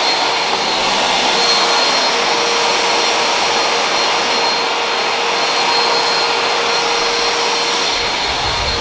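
Household vacuum cleaner running steadily, a loud rushing motor noise with a high whine.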